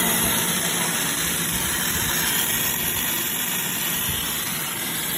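Steady machine noise with a strong hiss from a continuous laser-welding square-tube production line running.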